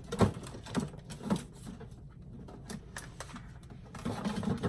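Scattered light clicks and knocks of small objects being handled and set down on a work table.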